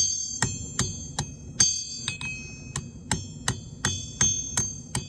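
Hand hammer forging hot iron on an anvil: steady, evenly paced blows, about two and a half a second, each with a bright ringing from the anvil, over a low steady rumble.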